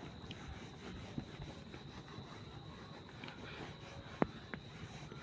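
Faint rubbing and handling sounds, with a sharp click about four seconds in and a smaller one just after, over a faint steady high-pitched whine.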